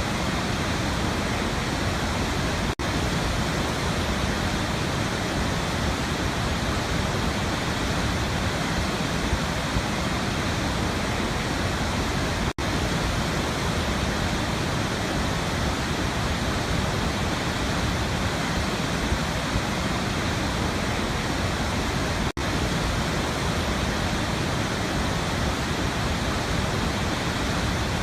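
Waterfall: a steady, full rush of falling water, with three momentary dropouts about ten seconds apart.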